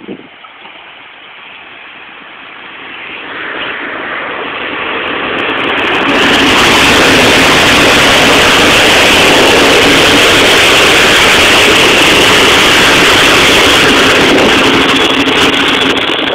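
Passenger train coming along a station platform and rolling past close by. The rumble builds over the first few seconds, then settles into a loud, steady rush of the coaches going by.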